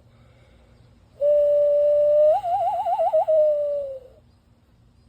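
Hand call blown through cupped palms and thumbs: one long whistled note that holds steady, breaks into a fast warble about halfway through and slides down in pitch as it ends.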